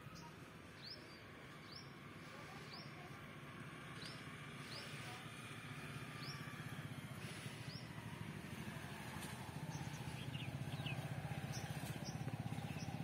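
A bird calling over and over, short high chirps that fall in pitch, about one a second, over a steady low hum that grows louder in the second half.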